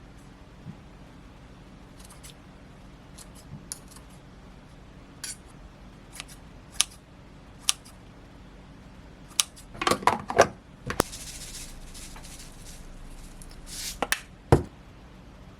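Kitchen handling sounds during meal preparation: scattered light clicks and taps of utensils and dishes, a quick cluster of louder knocks about ten seconds in, then a couple of seconds of hiss, and two sharp clacks near the end.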